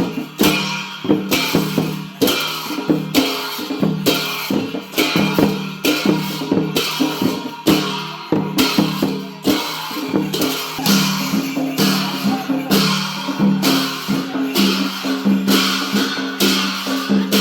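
Traditional Newar dance music of drums and cymbals played to a steady beat, with a crash about twice a second over a held low tone.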